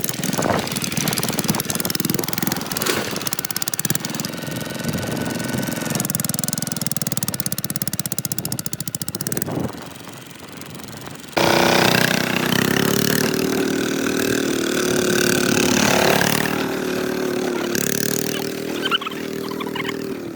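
Kubota RT140 DI single-cylinder diesel engine running steadily. It drops away about ten seconds in and comes back louder suddenly about a second and a half later.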